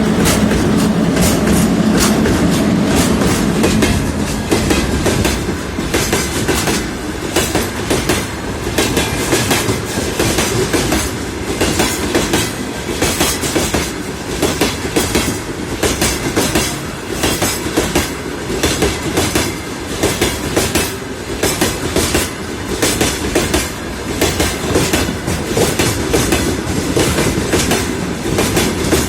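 Freight train led by a 2ES6 electric locomotive passing close by. A steady hum sounds for the first few seconds, then the freight wagons' wheels clatter over the rail joints in a steady, repeating clickety-clack.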